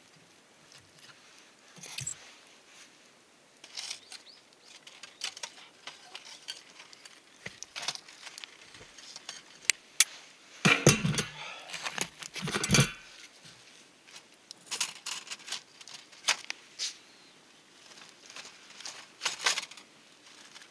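Scattered clicks and knocks of objects being handled, with a louder clatter about eleven to thirteen seconds in.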